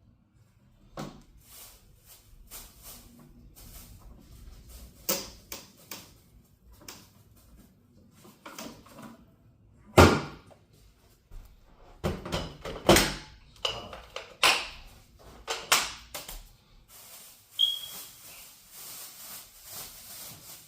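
Scattered clicks, knocks and clunks of hard plastic parts being handled, with the loudest clunk about ten seconds in and a run of them a few seconds later, while the vacuum is switched off: the vacuum's dust canister being taken off and emptied because it has lost suction.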